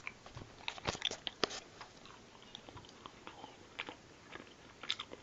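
A person biting into and chewing a small milk chocolate from an advent calendar: scattered soft crunches and mouth sounds, busiest in the first second and a half.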